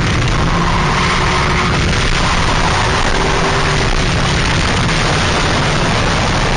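2000 Ford Mustang drift car's engine running hard, a loud, steady, heavy low rumble with no break or change in level.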